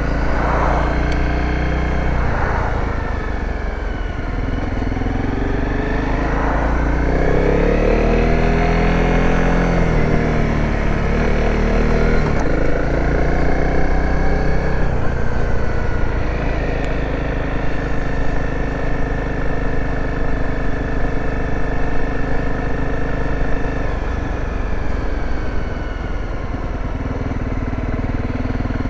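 Dirt bike engine under way: its pitch drops, climbs again about six seconds in and falls back, then holds steady while cruising through the second half, over steady low wind rumble.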